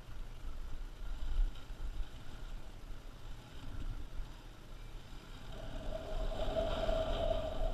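Motorcycle engine running as the bike is ridden off-road, with wind buffeting the microphone. About two-thirds of the way through a louder, steady engine note comes up.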